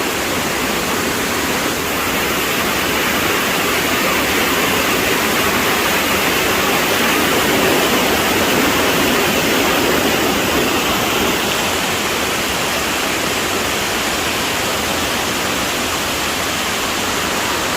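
Sai Yok Noi waterfall: a loud, steady rush of water pouring over rock, swelling a little in the middle.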